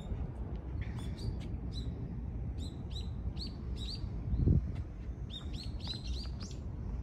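A small bird chirping in a series of short, quick calls, thickest near the end, over a steady low rumble. There is a brief low thump about four and a half seconds in.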